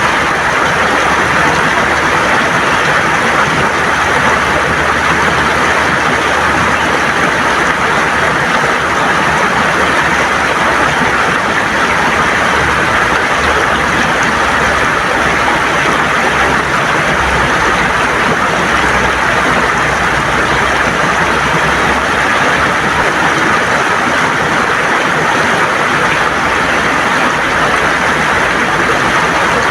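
River water gurgling and rushing over stones, a steady, loud wash of water with no letup.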